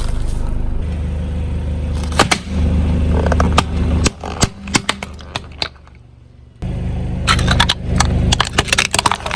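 A car's engine running low while its tyre rolls over brittle objects, crushing them with a rapid series of sharp cracks and crunches in two bursts, with a quieter pause between.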